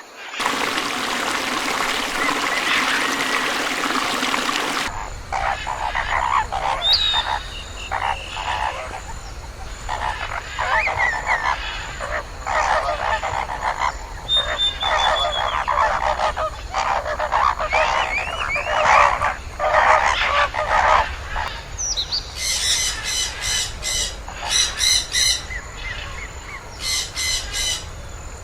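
Animal calls, in several short stretches: a noisy hiss for the first few seconds, then many short calls in quick succession, then rapid runs of repeated shrill calls near the end.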